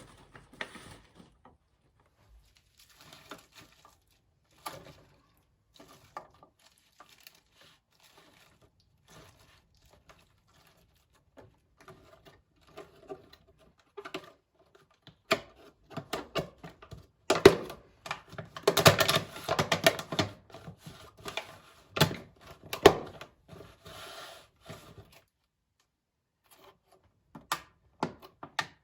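Hands handling objects: scattered light clicks and taps with rustling and tearing, sparse at first, busiest and loudest a little past the middle, then dying away with a few last clicks near the end.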